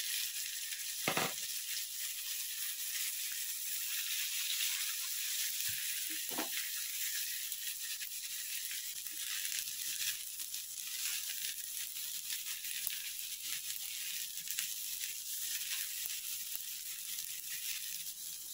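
Sliced onion, tomato and grated dry coconut sizzling in a little oil in a nonstick pan while being stirred with a spatula, with two light knocks about a second in and around six seconds.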